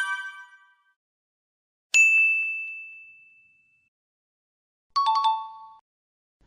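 Bell-like ding sound effects: a single clear ding about two seconds in that rings out, then a quick two-tone ding-dong chime, higher note then lower, near the end.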